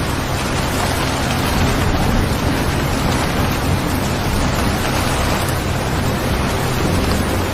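Steady, even rain noise, a continuous recorded rainfall ambience, with a steady low hum underneath.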